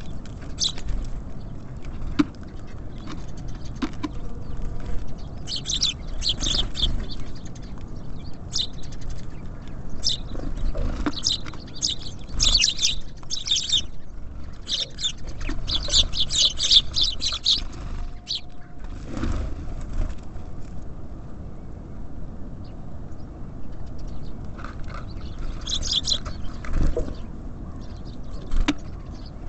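Small songbirds at a feeder, tits and sparrows, chirping in short bursts of quick high calls that come and go, with a few light knocks. A steady low rumble runs underneath.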